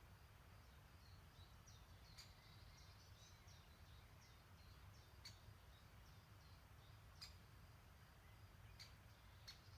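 Near silence with faint distant songbirds twittering in thin, high notes, and a few short sharp ticks spaced a second or more apart, over a low steady rumble.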